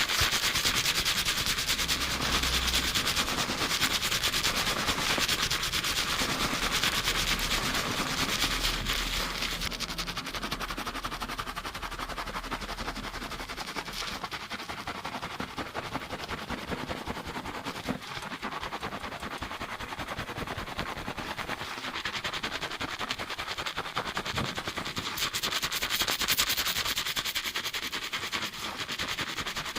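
Fingers scrubbing a lathered scalp in a fast shampoo: a dense, rapid crackle of rubbing hair and foam. It eases a little in the middle and picks up again near the end.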